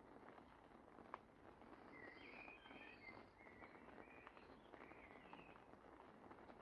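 A songbird singing a short phrase of chirping, warbling notes, faint, over a steady soft hiss with a few light ticks.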